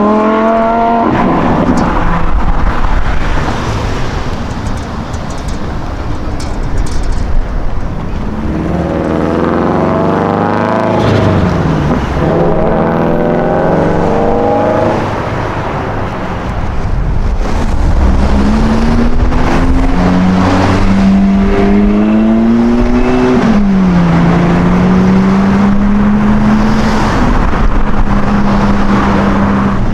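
High-performance car engines accelerating hard, their note climbing in steps as they shift up through the gears, at the start and again about ten seconds in. In the second half an engine holds a steadier note, rising and then dropping about twenty-three seconds in.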